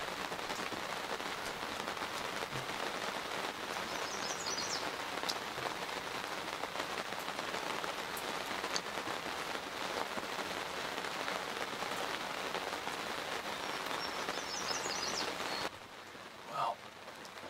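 Steady rain falling, heard from inside a hunting ground blind. A small bird gives a quick run of high chirps twice, about four seconds in and near the end. Near the end the rain turns softer and there is a short bump.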